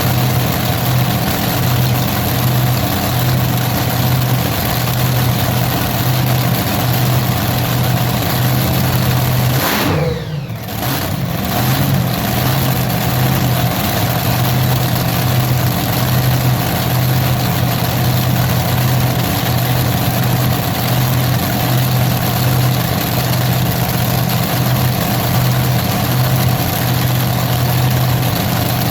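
Large engine running at a steady speed with a strong low hum. About ten seconds in, its pitch falls and the sound dips for a second or two, then it comes back up and runs steady again.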